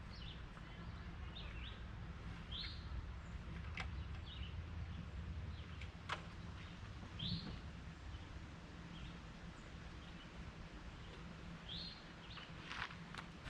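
Small birds chirping: short, high, separate chirps every second or two, with a few faint sharp clicks over a low steady hum.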